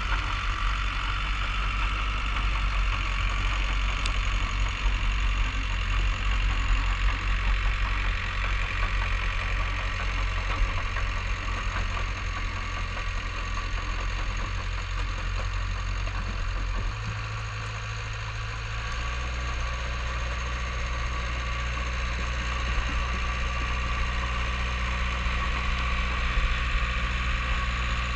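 Bulldozer's diesel engine running steadily under snow-clearing work, its low note dipping about two-thirds of the way in and settling at a different pitch.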